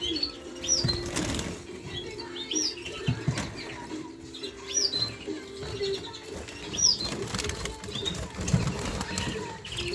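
Caged finches give short, high, rising-and-falling chirps about every two seconds. Wings flutter and there are small knocks against the cage, over a steady low hum.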